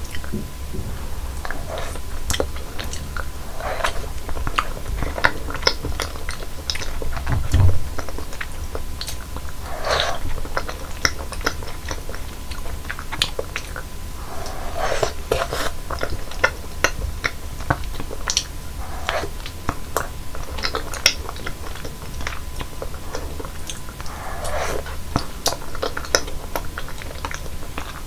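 Close-miked chewing and biting of fresh fruit: many small wet clicks, with a fuller bite every few seconds.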